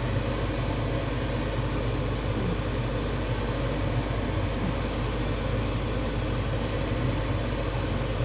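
A steady machine hum: an even low drone with a rushing hiss over it, unchanging throughout.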